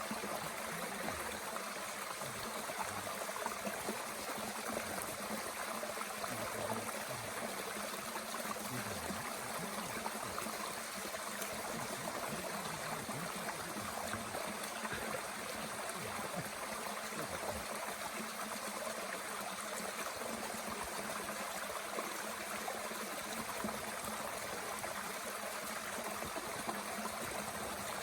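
Mountain stream flowing steadily, an even rush of running water.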